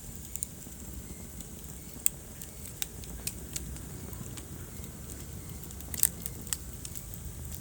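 Wood fire in a fireplace burning with a steady low rumble and scattered sharp crackles and pops, the loudest pops about two seconds in and at about six seconds.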